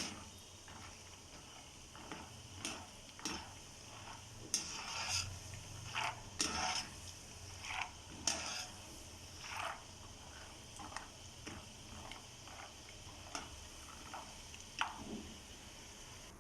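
Peanuts frying in hot oil, stirred in a metal pan with a ladle: a faint steady sizzle under irregular scrapes and clinks about once a second.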